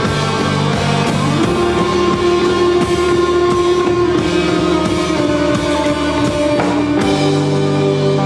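Rock band playing live: guitar and bass holding long chords over drums, the chord changing about a second and a half in and again near the end.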